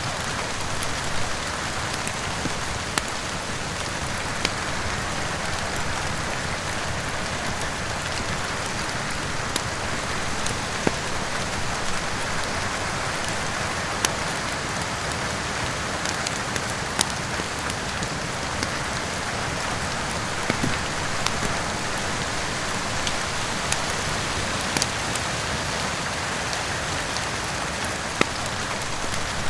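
Steady rain falling, with occasional sharp crackles from a wood fire in a fireplace.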